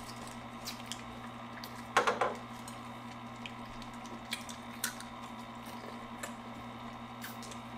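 Chocolate fondue fountain running with a steady low motor hum while the chocolate flows, with scattered small clicks and one louder short sound about two seconds in.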